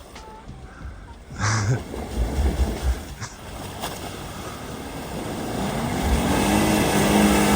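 Off-road vehicle engine, heard as a low rumble with a brief thump, then revving up about six seconds in and holding a steady high note.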